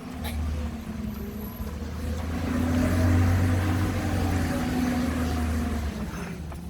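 Garbage truck's engine driving by: a low steady hum that swells to its loudest about halfway through and then fades away.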